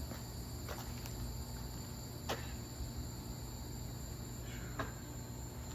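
A steady high-pitched background tone with a low hum beneath it, broken by a few faint clicks.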